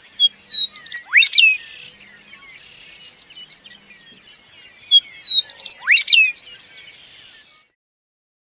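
Songbird singing: two matching phrases of high chirps, each with a quick whistle sweeping sharply upward, followed by a buzzy chatter. It cuts off suddenly near the end.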